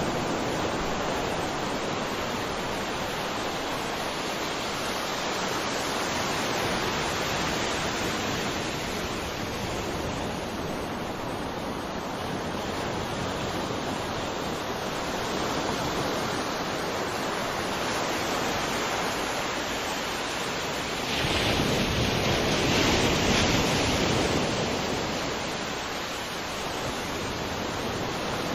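Sea surf: a steady wash of waves, with one louder wave swelling and breaking about three quarters of the way through.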